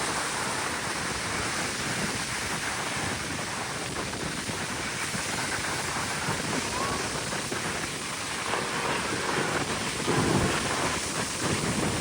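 Steady wind noise on the microphone over breaking surf, with a brief louder low rumble about ten seconds in.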